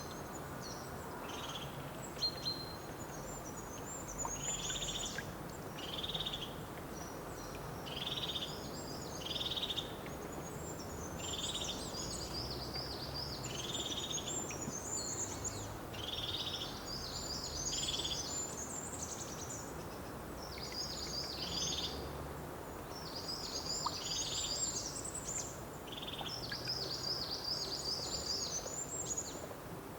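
Several songbirds singing. One repeats a short clear note every second or two, while others sing busy, high twittering phrases, over a steady background hiss of outdoor ambience.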